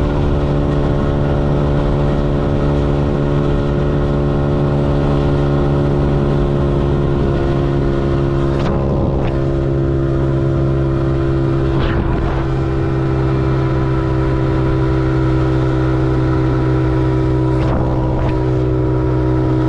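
Honda CRF125F's air-cooled single-cylinder four-stroke engine running at a steady, nearly unchanging pitch as the bike cruises along the road. Three short breaks in the steady note come a little under halfway in, past halfway, and near the end.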